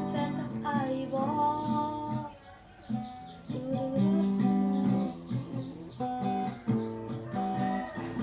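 Acoustic guitar strummed, playing song accompaniment with a steady rhythm; it dips briefly a few seconds in.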